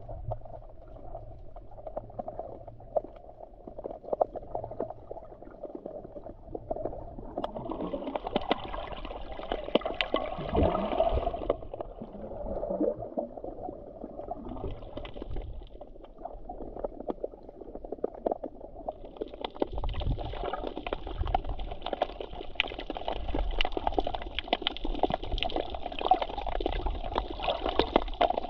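Black Sea water sloshing and gurgling close to the microphone, coming in uneven surges, with louder hissing washes about eight seconds in and again from about twenty seconds in.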